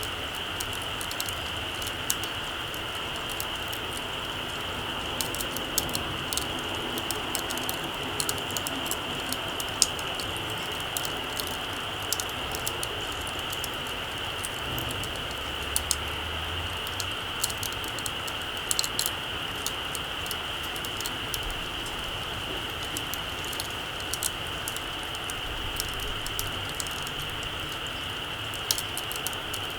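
Small campfire crackling, with irregular sharp pops and ticks of burning wood, over a steady high-pitched hiss.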